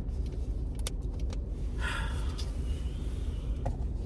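Steady low rumble of a motor vehicle heard from inside, with a few light clicks and a brief hiss about two seconds in.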